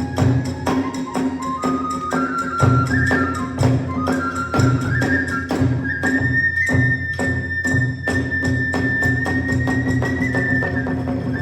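Hiroshima kagura hayashi ensemble playing. A bamboo flute's melody climbs in steps and then holds a long high note, over steady, rapid drumbeats and sharp metallic clashes, typically from the hand cymbals.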